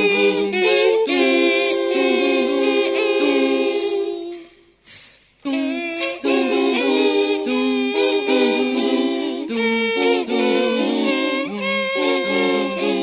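A cappella vocal music: several voices singing held chords in close harmony, with a short hiss about every two seconds marking the beat. The singing breaks off briefly about five seconds in.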